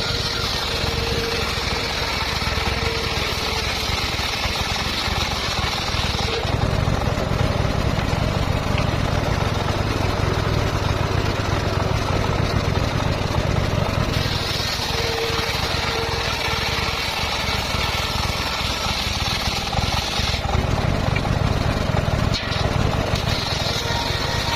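Circular saw running continuously on petung bamboo over a steady low motor hum. A high hiss comes in for stretches of about six seconds, near the start, from about 14 s to 20 s and again near the end, as the blade cuts through the bamboo.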